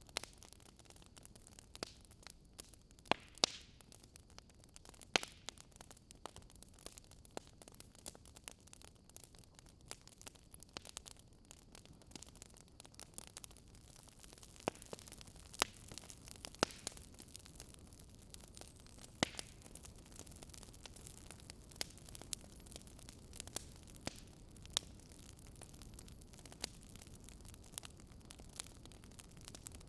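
Fireplace crackling: irregular sharp pops and snaps over a low, steady hiss.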